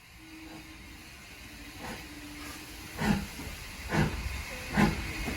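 Steam locomotive exhaust chuffing with a steam hiss. The beats come about one every 0.8 s and grow steadily louder, the strongest from about halfway in.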